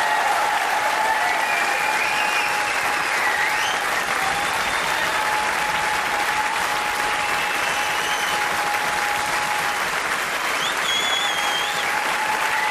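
Concert audience applauding steadily, with several high whistles sliding over the clapping and a long steady high tone held underneath.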